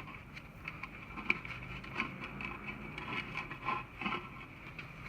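Hand work on dirt-bike exhaust parts: irregular light clicks, scrapes and rustling.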